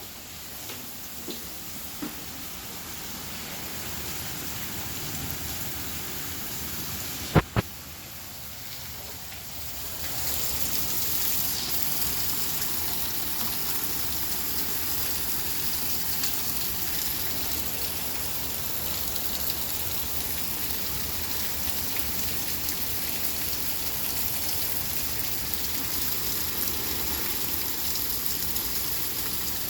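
Heavy rain from a severe thunderstorm, a steady hiss. About seven seconds in come two sharp clicks close together, and from about ten seconds in the rain is louder.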